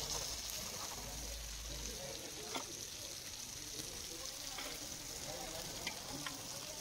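Fish and shallots sizzling in oil on a hot flat griddle (tawa): a steady frying hiss, with a few light taps of a spatula against the griddle.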